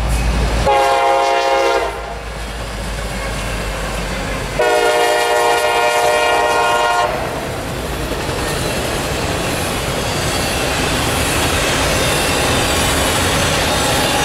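Horn of a pair of CSX SD50 diesel locomotives sounding twice, a short blast about a second in and a longer one around five seconds, over the low rumble of the engines. Then the auto rack cars roll past with a steady clatter of wheels on the rails.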